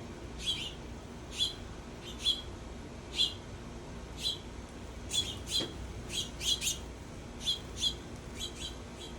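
A songbird repeatedly giving short, sharp chip calls, about one a second at first, then quicker and in pairs from about halfway through.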